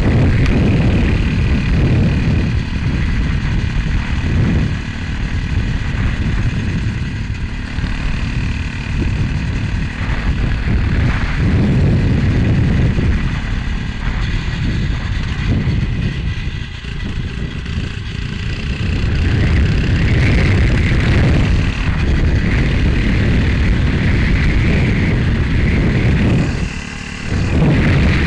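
Heavy wind rumble buffeting a helmet-mounted camera's microphone while riding a Motovox MBX11 minibike, with the small engine running underneath. The rumble eases briefly near the end.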